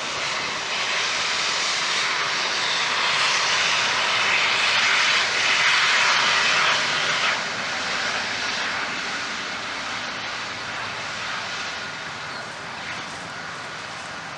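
Jet engine noise of an Airbus A330-200 airliner, a steady roar that builds to its loudest about five to seven seconds in and then slowly fades away.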